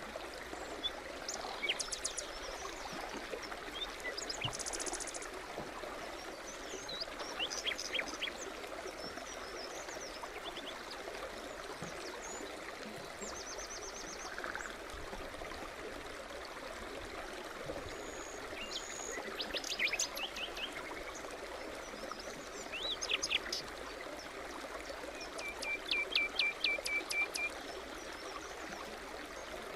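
A small forest stream burbling steadily over stones, with songbirds chirping and trilling on and off over it, several short phrases and a quick run of notes near the end.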